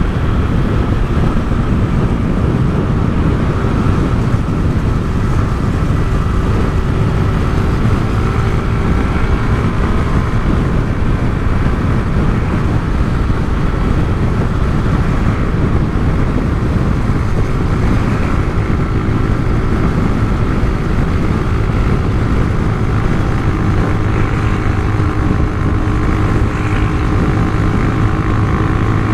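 Honda CG Titan 150's single-cylinder four-stroke engine running through an aftermarket Turuna exhaust, a steady loud drone with no big changes in pitch.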